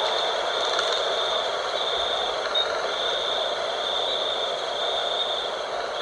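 Wind blowing steadily at night, with a high-pitched trill that pulses on and off about once a second over it.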